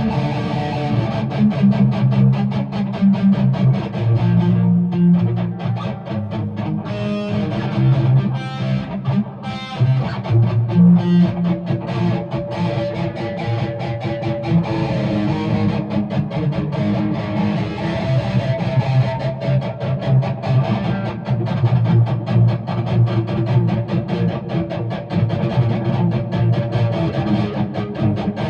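Guitar being strummed steadily in a quick, even rhythm.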